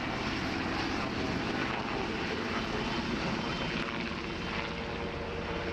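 Military helicopters, a Westland Sea King and an NH90, with their rotors and turbine engines running steadily.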